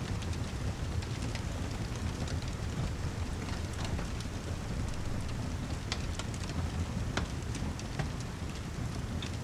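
Steady rain with a deep, constant rumble underneath and scattered sharp ticks of drops through it.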